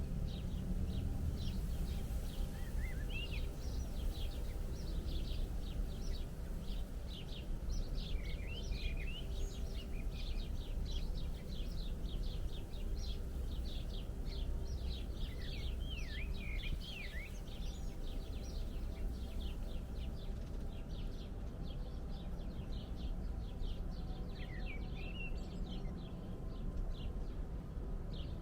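Small birds chirping rapidly in many short, high calls with occasional twittering glides, thinning somewhat in the last third, over a steady low rumble of background noise.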